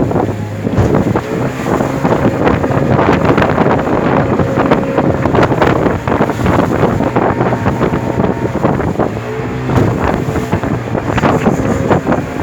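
Small motorboat's engine running steadily under way, with wind buffeting the microphone.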